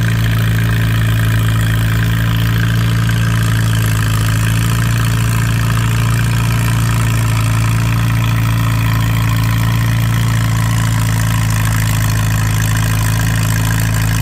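Antique tractor engine running hard at a steady, unchanging speed under full load while pulling the weight-transfer sled down the track.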